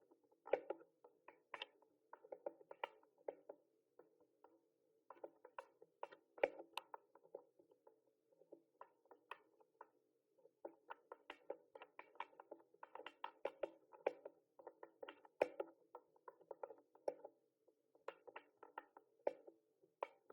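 Typing on a mechanical keyboard: quick runs of key clicks at an uneven pace, broken by short pauses of a second or so.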